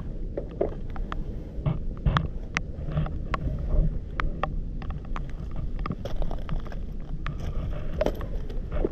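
Pebbles and gravel clicking and knocking as they are moved about on a river foreshore, many sharp clicks over a steady low rumble.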